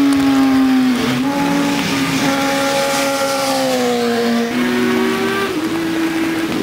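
Racing motorcycle engines of the 600 cc class held at high revs, the pitch dipping and rising about a second in, then sagging slowly and stepping back up twice near the end as the riders shift gear.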